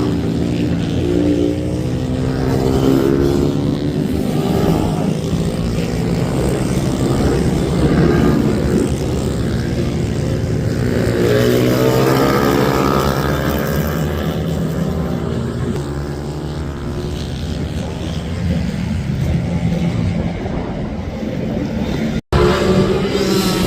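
Several racing minibike engines revving hard and changing pitch as the bikes accelerate, brake and pass, their notes overlapping. The sound drops out for an instant near the end.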